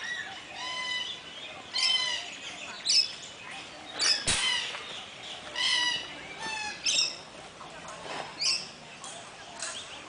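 Several birds squawking and chirping: short calls of several kinds, one or two a second, sometimes overlapping. A single sharp knock about four seconds in.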